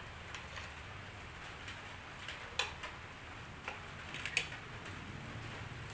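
Cutlery clinking now and then against a plate or bowl while eating: a handful of light, sharp clicks, the loudest about two and a half and four and a half seconds in, over a steady faint background.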